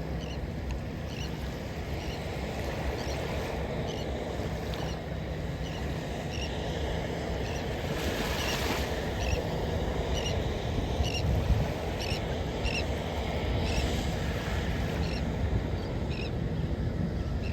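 Gulf surf washing onto the beach with wind buffeting the microphone, under a faint steady low hum. Short high-pitched chirps come every second or so.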